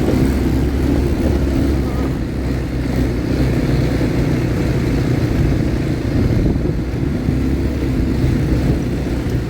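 ATV engine running steadily while being ridden, a low rough drone with small rises and dips in pitch.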